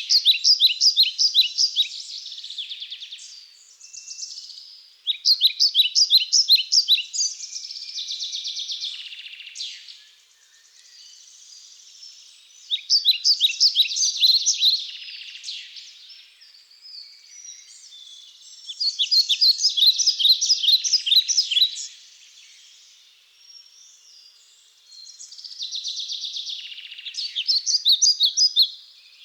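A songbird singing the same song over and over: five songs, each a rapid run of sharp, high chirped notes lasting two to three seconds, coming every five to seven seconds, with fainter twittering in between.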